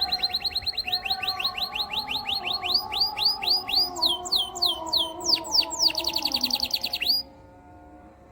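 Domestic canary singing. It runs a fast trill of repeated high down-slurred notes, slows into longer, slower swooping notes, then a quick fast trill, and breaks off abruptly about seven seconds in.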